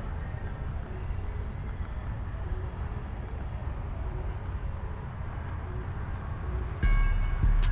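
Steady low rumble of a vehicle engine running. Near the end, music with a deep bass and a fast hi-hat beat cuts in, louder than the rumble.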